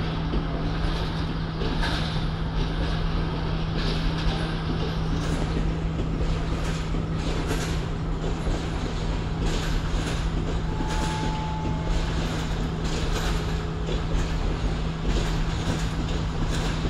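Train carriages rolling slowly past over the tracks, with a steady low engine hum. From about five seconds in, wheels click over the rail joints.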